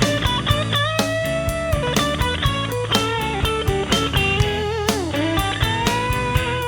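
Electric blues band recording: a lead electric guitar plays sustained notes with string bends and vibrato, over drums and bass.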